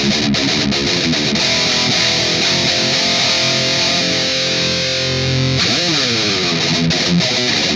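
Distorted electric guitar playing a metal riff: fast chugging notes, then a chord held and left ringing for a few seconds. About six seconds in, the pitch slides down, and the fast chugging picks up again.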